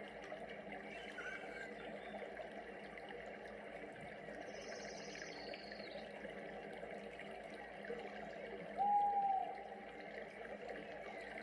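Rainforest ambience: steady running water with scattered animal calls over it, a high trill about five seconds in and a clear whistled note near nine seconds, the loudest moment.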